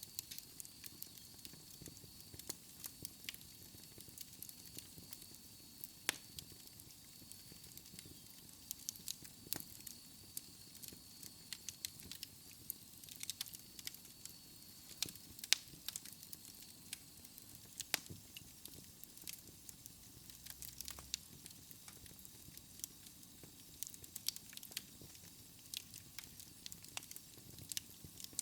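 Wood fire burning in a fireplace, crackling with irregular sharp pops over a soft hiss. A faint steady high tone sounds through the first half.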